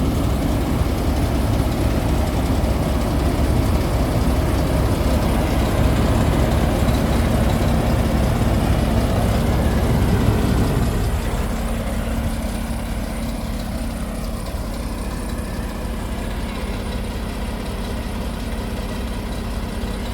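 Semi truck's diesel engine idling with a steady low hum. A louder rushing noise over it falls away about halfway through.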